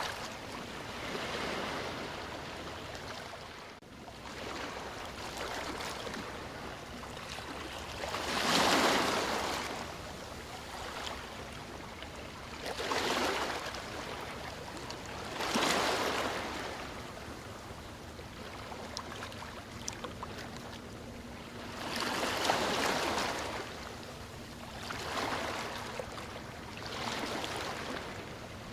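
Sea waves breaking and washing up the shore, surging every few seconds over a steady wash of surf. The biggest wave breaks about a third of the way through.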